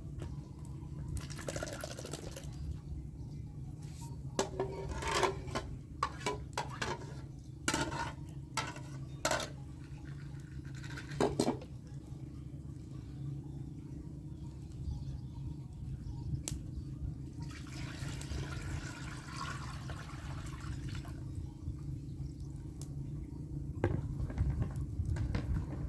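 Liquid being stirred and poured in a cooking pot, with scattered sharp knocks of a utensil against the pot in the first half, over a steady low rumble.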